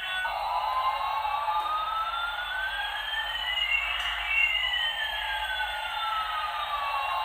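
Electronic jet-engine sound of a battery-powered toy airliner: a steady hiss with two whistling tones, one rising and one falling, that cross about halfway through.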